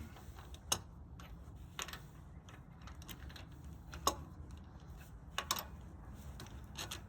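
A handful of scattered sharp clicks and knocks, about five over a few seconds, from hand tools and metal parts being handled while working on a car's rear brake. A low, steady hum sits underneath.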